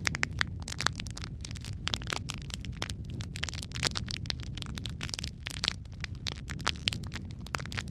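Wood fire crackling, with frequent sharp pops and snaps over a steady low rumble of flames.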